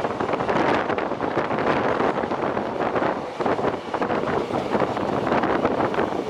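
Express passenger train running in along the platform: a loud, continuous rushing rumble, with wind buffeting the microphone.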